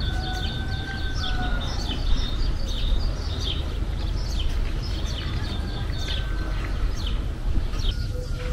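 Small birds chirping in quick short notes throughout, over a steady low rumble of wind on the microphone. A long drawn-out call sounds in the first second and a half.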